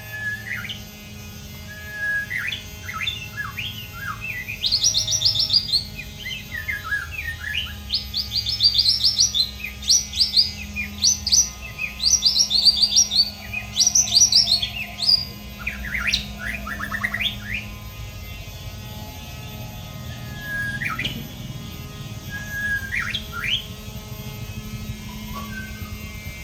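White-rumped shama singing a varied song of short whistled notes and rapid high trills, busiest and loudest through the middle, thinning to a few scattered whistles near the end.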